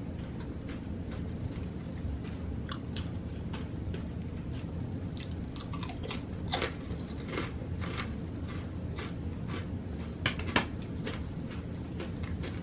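A person chewing food: a steady run of small mouth clicks about two a second, with a few louder clicks about six and ten seconds in, over a low steady hum.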